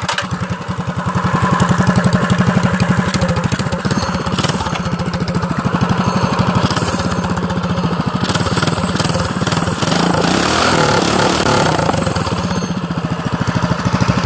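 Minibike's Predator Hemi 212 single-cylinder engine running: a fast, even chug of exhaust pulses that gets louder about a second in, with the engine note shifting up and down around ten seconds in.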